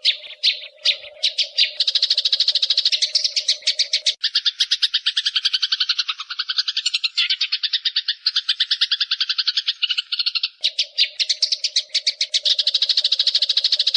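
Eurasian tree sparrows chattering in a fast, unbroken run of sharp chirps, about eight to ten a second: the scolding calls of sparrows fighting. A steady low tone runs under the chirps for the first four seconds and comes back about ten and a half seconds in.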